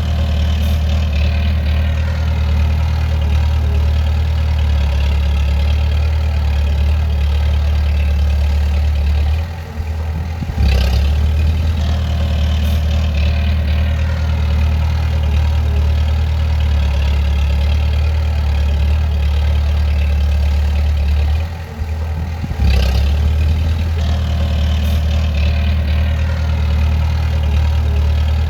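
Bulldozer's diesel engine running steadily with a deep hum. Twice, about twelve seconds apart, it sags for about a second, then picks back up with a short knock.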